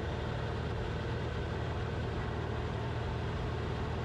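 Cessna 172RG's engine and propeller droning steadily in the cockpit at reduced power in the landing pattern.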